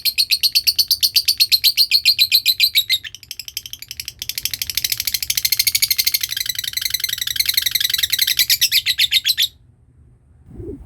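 Lovebird giving its long 'ngekek' chatter: a fast, even run of high, rattling notes. It softens briefly about three seconds in, picks up again and cuts off abruptly near the end.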